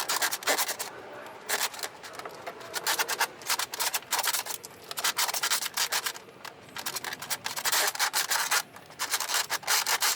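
Braided steel cable from an old garage door being pushed and twisted through the door's wiring loom, scraping and rubbing in irregular short bursts.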